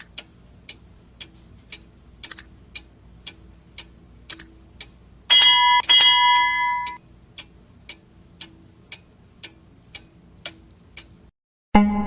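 Steady clock-like ticking, about two ticks a second, with a bell chime ringing for about a second and a half about five seconds in. The ticking stops shortly before the end.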